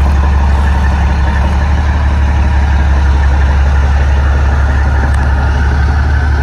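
A large engine running steadily at idle, with a deep constant hum.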